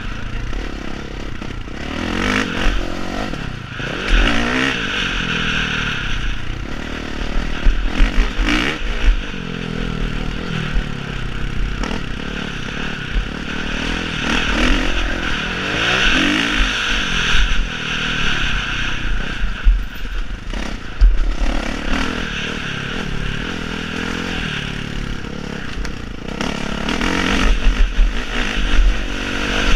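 Motocross motorcycle engines revving up and down over and over, their pitch rising and falling every few seconds as the bikes accelerate and back off.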